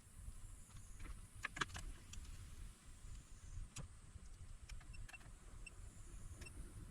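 A few faint, sharp clicks and taps over a low steady hum, with a close pair of clicks about a second and a half in and another near the four-second mark.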